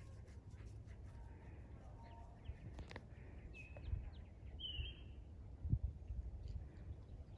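Small birds chirping now and then, a few short high calls, over a low rumble with a couple of soft thumps, the loudest a little past the middle.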